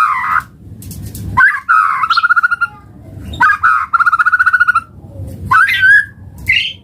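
White-rumped shama (murai batu) singing a run of loud phrases about every second and a half, each a rapid trill, with rising whistled notes near the end.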